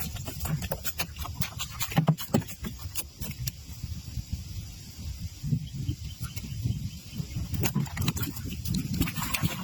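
A fluctuating low rumble with scattered sharp clicks and taps.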